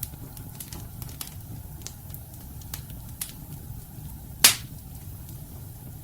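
Wood fire burning in a fireplace: a steady low rumble with scattered sharp crackles and pops from the burning logs, and one loud pop about four and a half seconds in.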